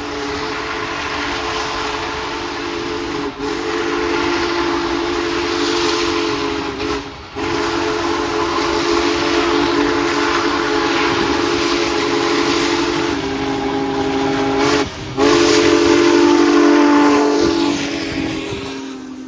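Union Pacific Big Boy 4014 steam locomotive's whistle blowing long, deep-chorded blasts with short breaks between them, over a steady hiss. The last blast is the loudest and sags in pitch as it dies away near the end.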